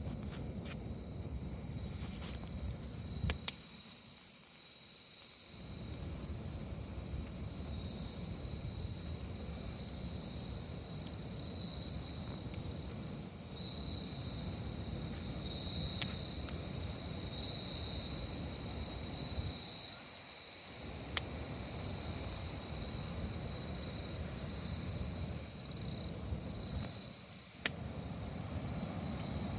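Crickets chirring in a steady high trill, over a low rushing noise, with a few sharp crackles from a wood campfire.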